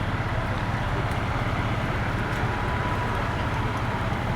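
Steady low rumbling noise that does not change, with a faint steady high tone over it.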